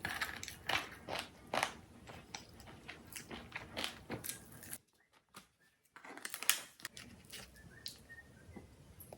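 Close-up crunching and chewing of crispy food, with sharp crackly bites. It breaks off into near silence for about a second around the middle, then resumes.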